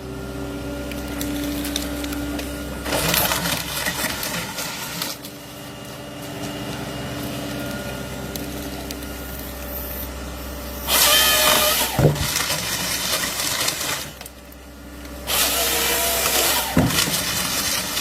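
A motor-driven machine running with a steady hum, surging louder and noisier three times: a couple of seconds in, around the middle and again near the end.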